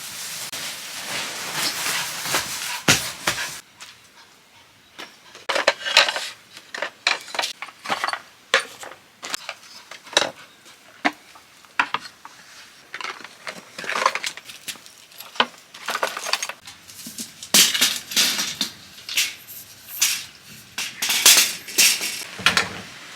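Camping gear and small objects being handled and set down: an irregular string of short clinks and knocks with some rustling.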